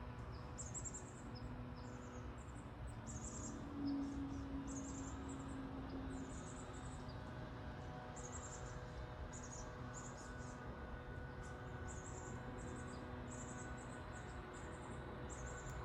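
Small birds calling with short, very high, thin chirps, one or two a second and irregular, over a faint low rumble.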